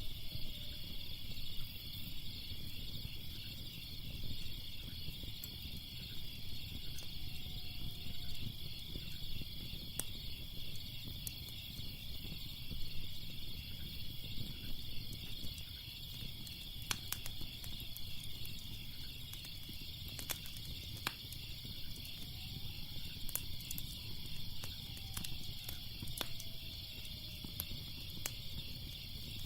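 Crackling fire with scattered sharp pops over a low steady rumble, and crickets chirping steadily in a fast pulsing trill throughout.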